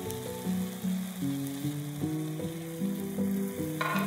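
Potato-and-cabbage cakes sizzling as they fry in oil in a pan, under background music, a melody of short notes. Just before the end a brief scrape as a spatula and turner go under a cake to turn it.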